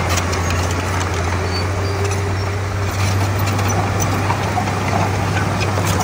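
Komatsu D31P bulldozer's diesel engine running steadily with a constant low hum, with scattered light clicks and clanks over it.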